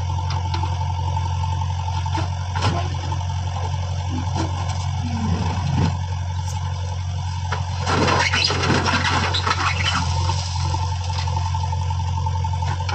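Heavy machine engine running steadily, with a burst of scraping and sloshing noise about eight seconds in.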